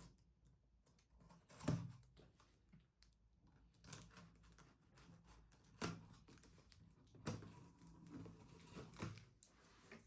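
Light clicks and taps of objects being handled in a quiet small room, with a few louder knocks about 2, 6, 7 and 9 seconds in.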